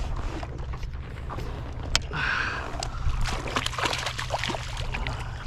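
Water sloshing and dripping with scattered small clicks and knocks, including one sharp click about two seconds in, as a small sea bass that has just been caught is brought aboard a kayak and handled.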